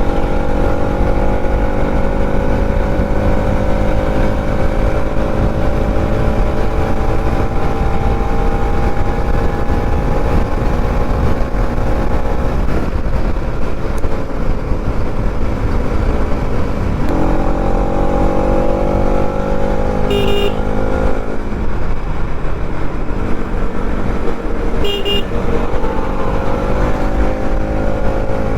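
Bajaj Pulsar NS200's single-cylinder engine pulling at highway speed, its pitch climbing slowly under acceleration, easing off about twelve seconds in and pulling again from about seventeen seconds. Two short horn toots come near twenty and twenty-five seconds, over a steady rush of wind.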